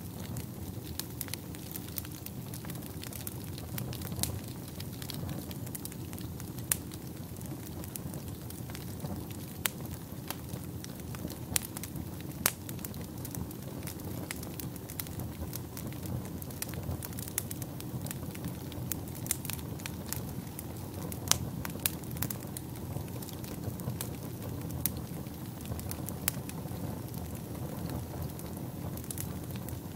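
Wood fire burning in a fireplace: a steady low rush of flames with irregular sharp crackles and pops throughout.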